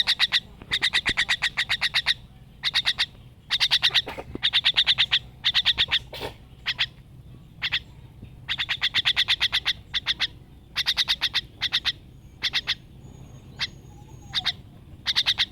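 A bird calling in rapid rattling bursts, each a quick train of about ten sharp pulses a second and lasting around a second, repeated over and over with short gaps between.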